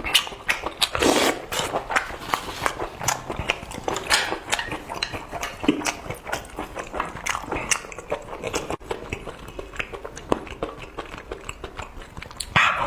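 Close-miked eating: chewing and biting with many quick, irregular wet mouth clicks and a few short noisy swells.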